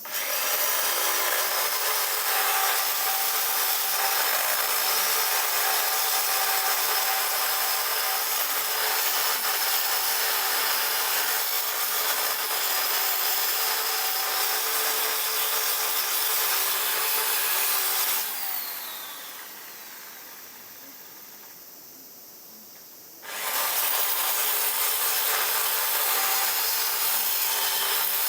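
Handheld electric power tool running steadily against workpiece material. About 18 s in it is switched off and winds down with falling pitch, then it starts again about five seconds later.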